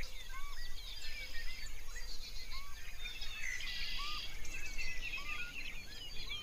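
A chorus of several birds chirping and calling over one another: many short high chirps, a lower arched call every second or so, and a brief buzzy trill a little past the middle.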